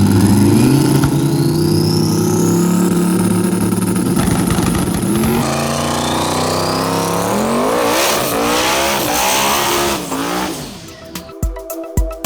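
Race cars' engines running hard, pitch rising and falling with revving and acceleration, with a sudden change about halfway through. Near the end the engines give way to electronic music with a beat.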